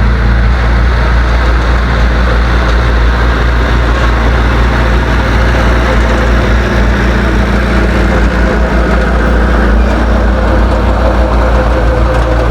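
Heavy diesel engine of earth-moving equipment running steadily and loud, with a deep even hum that holds its level throughout.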